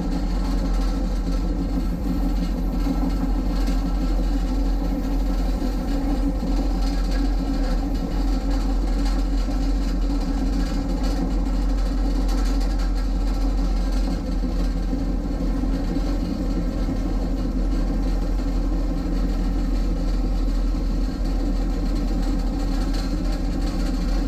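A train in motion, heard from on board: a steady low rumble and drone that runs on evenly, with no breaks or distinct clicks.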